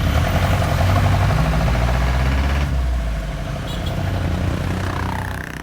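A vehicle engine running steadily with a fast, even pulse, heard up close.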